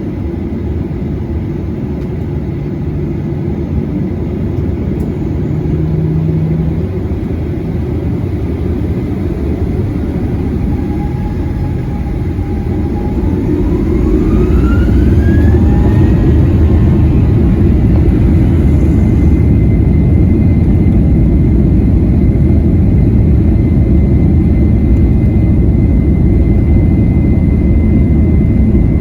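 Boeing 737-800's CFM56-7B jet engines heard from inside the cabin: a steady rumble, then about eleven seconds in a whine rises in pitch and the engines spool up to takeoff power. After that the sound stays louder and steady, with a high whine held.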